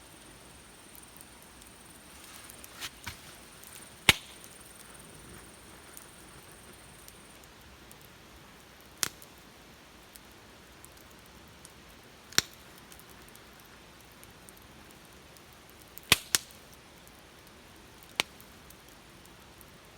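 Wood fire crackling: a handful of sharp single pops every few seconds, two in quick succession about sixteen seconds in, over a faint steady hiss.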